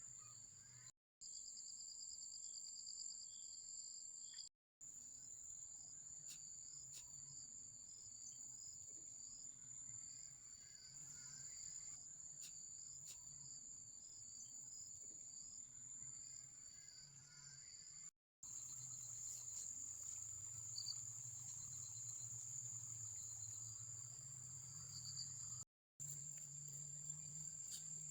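Night insects trilling: a steady high-pitched trill with a second insect chirping regularly just below it, over a faint low hum. The sound drops out to silence suddenly four times, for a fraction of a second each.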